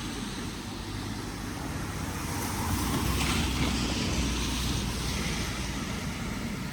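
Steady rain hiss with a low rumble underneath, the hiss swelling briefly around the middle.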